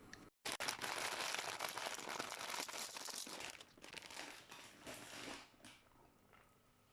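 Plastic packaging crinkling and rustling for about five seconds, a dense crackle of small clicks that fades out near the end.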